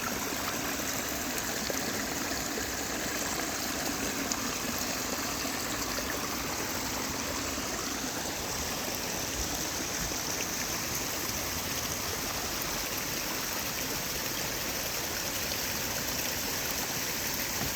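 Steady rushing and trickling of a flowing stream.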